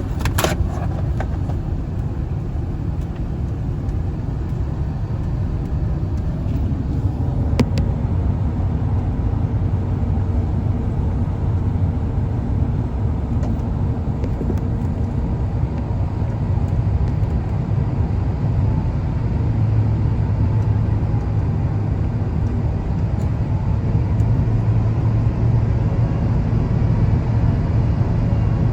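Airbus A350-1000 cabin noise heard from a window seat over the wing: a steady low rumble of airflow and the Rolls-Royce Trent XWB engines, with faint thin tones that drift slightly in pitch. A few short clicks come near the start and about seven seconds in.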